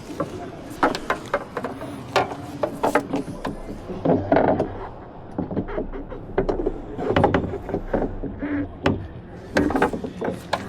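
Irregular metallic clicks, taps and knocks of hand tools being worked against a vehicle.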